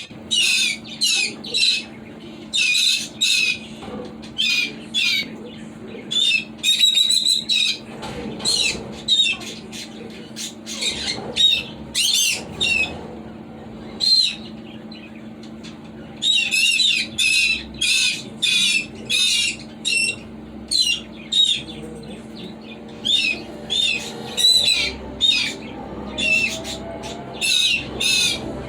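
Conures calling: long runs of short, sharp chirps and squawks, several a second, with a pause of about two seconds midway.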